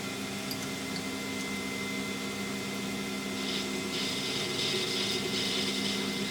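Machine tool spindle running with a steady hum, a chamfering tool in the chuck. From about three and a half seconds in, a hissing scrape joins as the chamfer cuts the edge of a drilled hole in the metal table.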